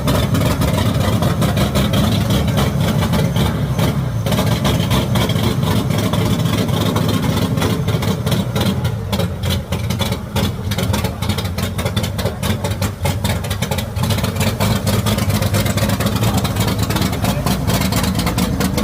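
Chevrolet Opala engine idling with a steady, pulsing exhaust rumble, loud and deep.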